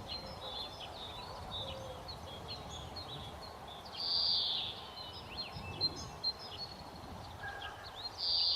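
Birds chirping and calling over a faint steady background hum, with a louder call that comes twice: about four seconds in and again near the end.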